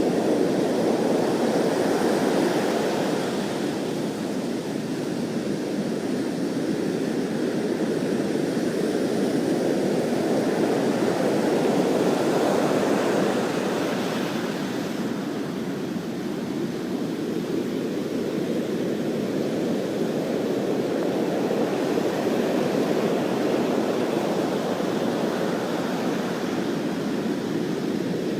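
Heavy hurricane-driven surf breaking on the shore: a continuous roar of waves that swells, eases about halfway through, then builds again.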